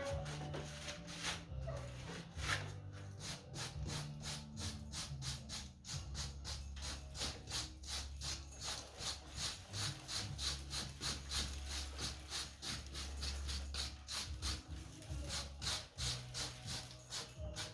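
Rhythmic scrubbing, about three strokes a second, as freshly grouted stone joints are scrubbed clean, over background music with a stepping bass line.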